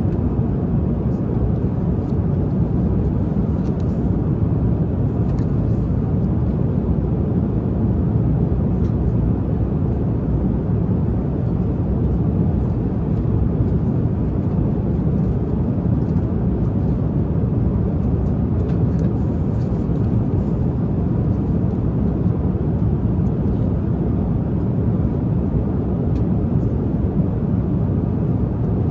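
Steady low rumble of an airliner cabin in cruise flight, with faint scattered light ticks above it.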